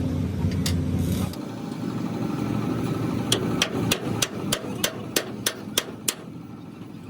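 A low mechanical rumble cuts off about a second in. Then a hammer strikes metal about ten times in quick succession, roughly three blows a second.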